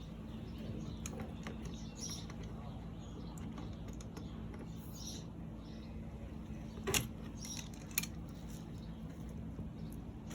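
Faint clicks and scrapes of a hose coupling being handled and screwed onto an outdoor hose faucet, with a sharper click about seven seconds in and another about a second later, over a steady low hum.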